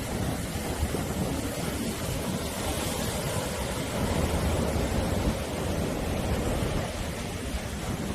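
Sea waves washing onto the shore in a steady surf noise, swelling a little louder around the middle.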